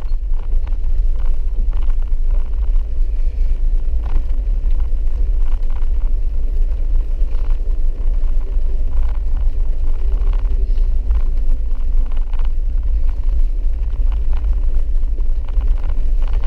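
A vehicle driving, heard from inside the cab: a steady low rumble from the engine and tyres, with scattered light ticks and knocks.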